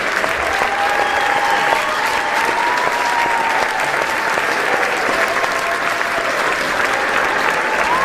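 Large audience clapping steadily and cheering, with a few long held shouts rising above the clapping.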